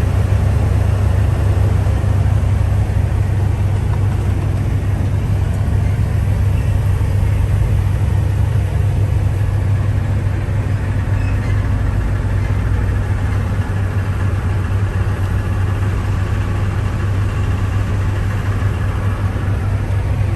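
Semi truck diesel engine running steadily, a deep even hum with no change in pitch.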